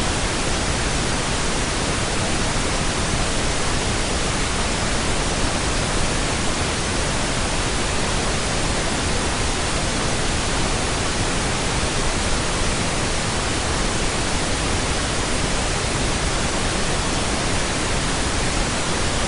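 Steady pink noise: an even, unbroken hiss spread across all pitches, used as the masking track of a subliminal recording.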